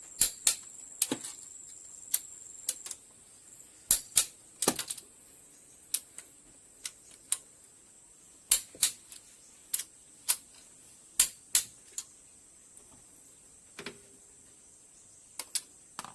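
Sharp metallic clicks and taps from hand tools on engine parts, irregular and often in quick pairs, about two dozen in all.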